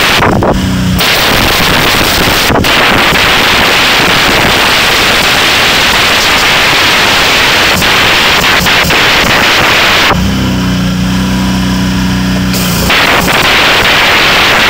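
High-pressure washer jet spraying water onto engine-bay surfaces, a loud steady hiss. The spray stops briefly near the start and again for about two and a half seconds around ten seconds in, and the washer's motor hum is heard in those gaps.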